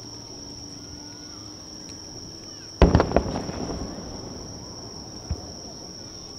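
Aerial firework shell bursting with a loud boom about three seconds in, followed quickly by a couple of sharper cracks and a rumbling echo that dies away over about a second; a smaller single bang follows near the end. A steady high-pitched insect trill runs underneath.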